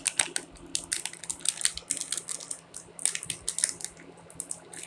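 Plastic biscuit packet crinkling and crackling in the hands as it is torn open: a quick run of irregular sharp crackles that eases off for a moment near the end.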